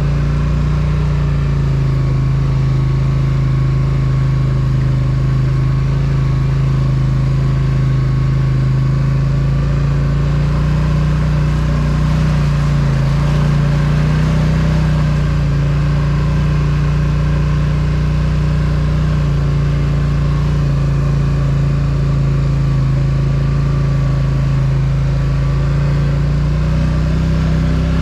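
Polaris Sportsman ATV engine running steadily while riding, its pitch rising a little about halfway through and again near the end.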